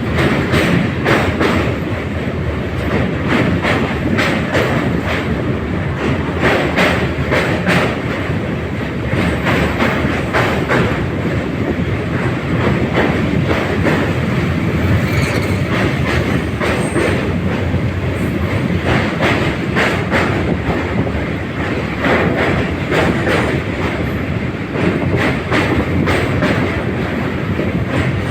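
Train running over a long railway bridge: a steady rumble of wheels on the rails with rapid clattering clicks from the rail joints.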